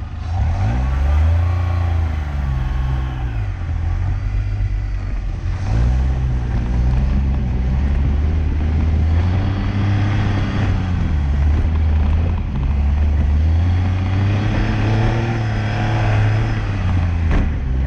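Car engine pulling hard, its revs rising and then dropping away at each of several gear changes as the car is driven briskly.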